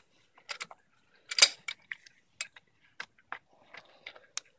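Socket wrench working a fitting loose: irregular metallic clicks and clinks of the ratchet and tool, with one louder knock about a second and a half in.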